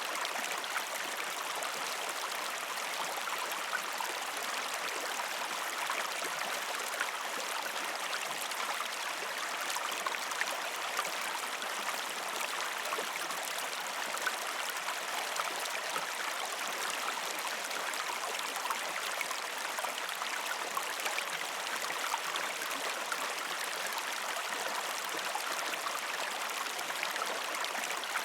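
Shallow river stream flowing over rocks: a steady, even rushing and babbling of water, dotted with small splashes and trickles.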